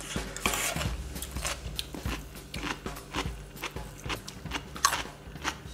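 Raw onion being chewed: irregular crisp crunches, one after another.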